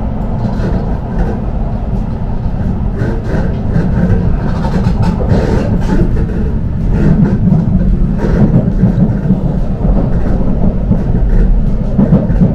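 Shinkansen Hikari bullet train running: a steady, loud low rumble from the train in motion.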